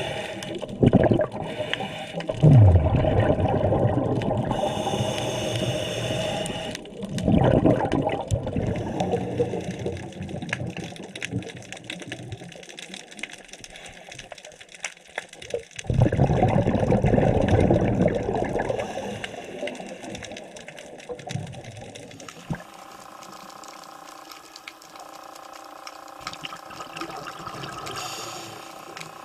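Scuba diver breathing through a regulator underwater: bursts of exhaled bubbles lasting a few seconds each, with quieter stretches between. From about two-thirds of the way through, only a fainter steady hum remains.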